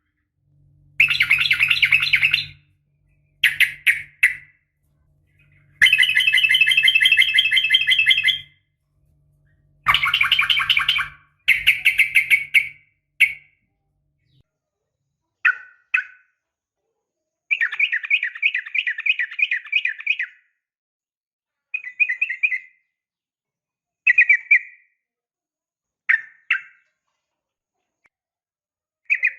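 Sooty-headed bulbul (trucukan) calls, given as a female's call to a male: a run of long chattering bouts, then shorter calls every couple of seconds. A faint low hum sits under the first half.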